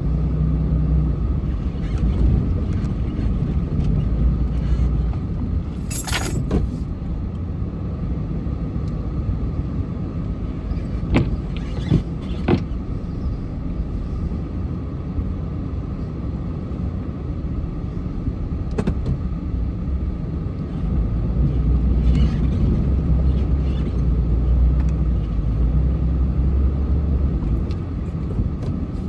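Car in motion: a steady low rumble of engine and road noise, with a few short sharp knocks or clicks, the clearest about six seconds in and a pair about eleven and twelve seconds in.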